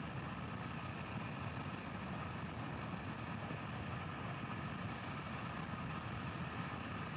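Steady low rumble and hiss with faint steady tones, unchanging throughout: the background noise of the live launch broadcast's audio feed between commentary.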